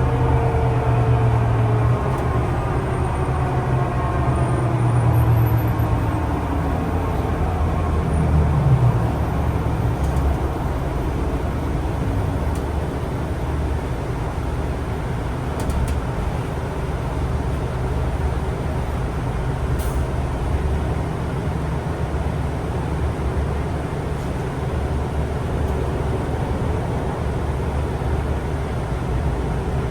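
City transit vehicle running, heard on board. A whine slides down in pitch over the first several seconds as it slows, then a steady low rumble goes on.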